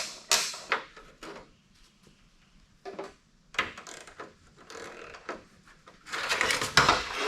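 Hand ratchet and socket clicking in short runs while loosening small 13 mm nuts behind a truck's corner light, with knocks of the tool against metal and plastic; the clicking is densest near the end.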